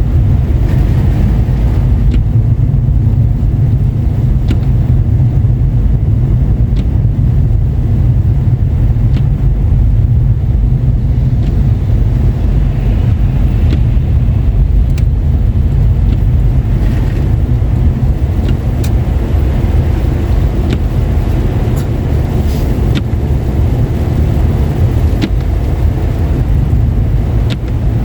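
Car driving on a wet, snowy road: a steady low rumble of engine and tyres, with a few faint, scattered ticks.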